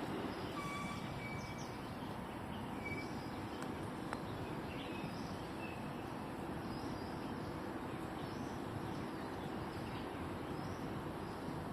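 Outdoor ambience: a steady hiss of background noise with a few short, high bird chirps scattered through it, most of them in the first half.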